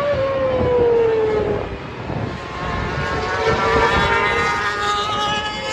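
Supersport race motorcycles passing at high revs. One engine note falls in pitch as it goes by in the first second and a half, then a group of several bikes follows about three to five seconds in, their engine notes overlapping.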